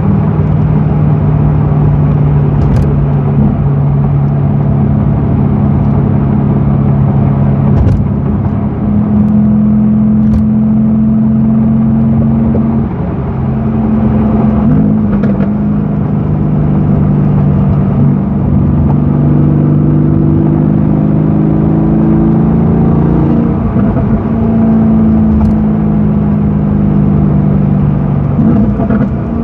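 Mercedes-AMG GT's twin-turbo V8 running under way, holding a steady note for long stretches, with its pitch changing a few times, about halfway through and again near the end.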